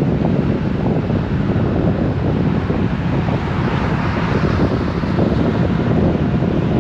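Wind buffeting the microphone on a moving Honda Gold Wing motorcycle: a steady, loud, low rush of wind and riding noise, with a brighter hiss swelling about four seconds in.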